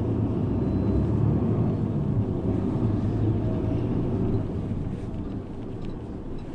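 City bus engine and road noise heard inside the cabin while the bus is moving: a steady low rumble that eases off a little after about four seconds.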